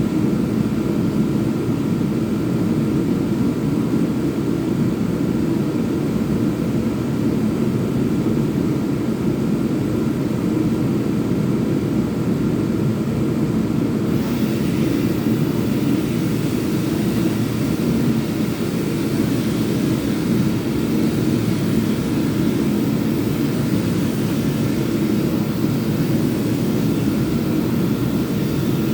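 Electric power sander running steadily against wood, an even motor drone with sanding hiss that grows a little brighter about halfway through.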